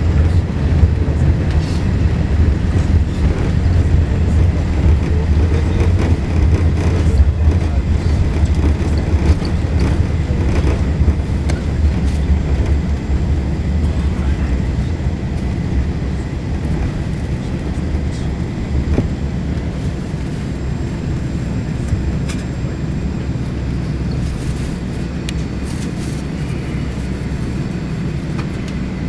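Airbus A380-800 cabin noise during the landing roll: a loud, deep rumble from the runway and engines that eases gradually as the aircraft slows, with a few light rattles.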